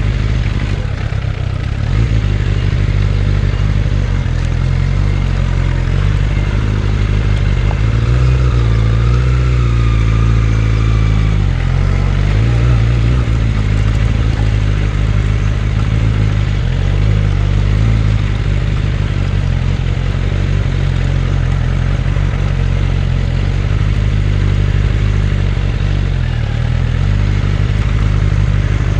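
Suzuki Bandit 600's inline-four engine running steadily while the motorcycle is ridden, with a rushing noise; the engine pitch rises and falls a few times about a third of the way in.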